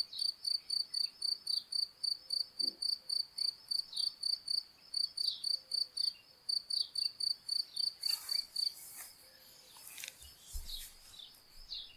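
Crickets chirping in a steady, even rhythm of about four chirps a second, with short bird chirps over them. The cricket chirping stops a little before nine seconds in, leaving a faint hiss and a few bird chirps.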